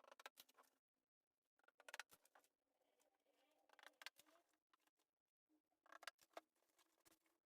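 Faint clusters of clicks and rustling, coming in four or five short bursts with quiet gaps between.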